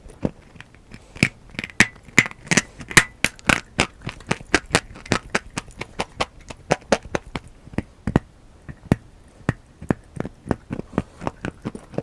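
Dry brown clay crunching and cracking in many sharp, irregular crunches, several a second, loudest in the first half.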